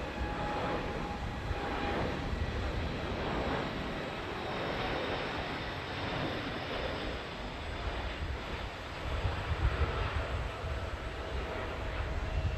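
Jet airliner engines running steadily, a continuous rush of noise with a deep low rumble and a few faint whining tones.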